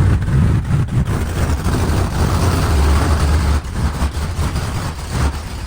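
Truck engine running with a heavy, low rumble, a little quieter from a bit past halfway.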